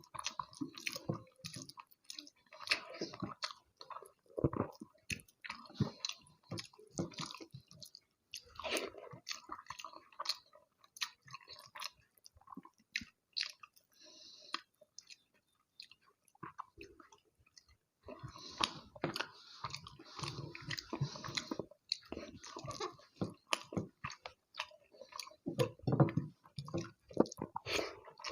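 Close-miked chewing and wet mouth sounds of someone eating rice with egg curry and fish curry: irregular smacks and clicks, sparser and softer for a few seconds in the middle.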